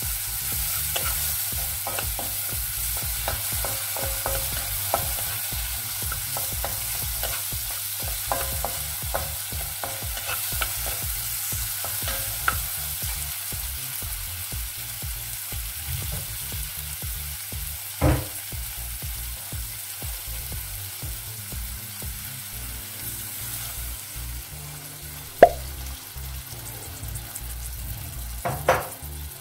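Chopped onion, chilies and tomatoes sizzling in a nonstick wok while a wooden spatula stirs and scrapes them, with frequent light taps in the first half. Later come a few sharper knocks of the spatula on the pan, the loudest a little over three-quarters of the way in.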